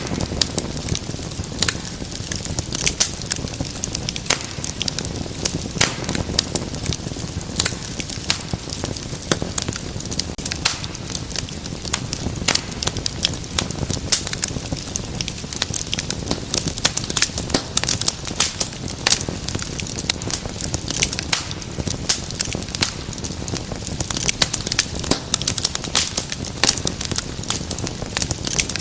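Wood fire burning in a fireplace: dense, irregular crackles and pops over a steady low rumble of flames.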